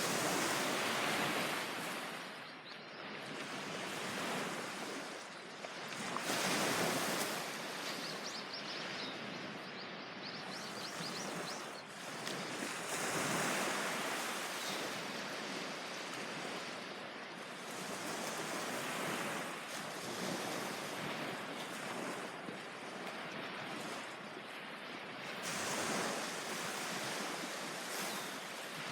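Ocean surf washing onto a beach, each wave swelling up and falling back every several seconds.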